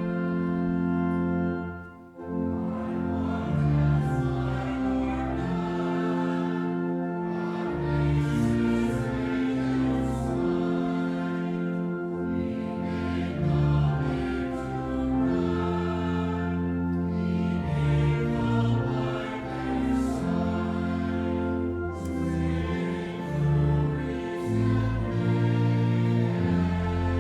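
Hymn music: sustained chords that change every second or two, with voices singing.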